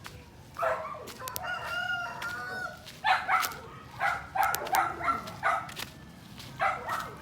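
A rooster crowing once, one long call lasting about two seconds, followed by a run of short, sharp animal calls.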